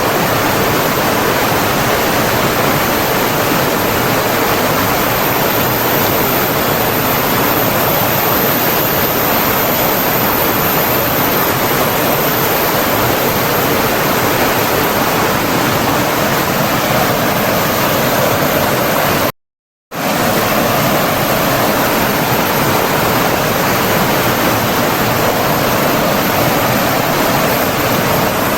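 Flowing stream water rushing steadily, an even, unbroken wash of noise. It cuts out completely for about half a second a little after two-thirds of the way through, then resumes as before.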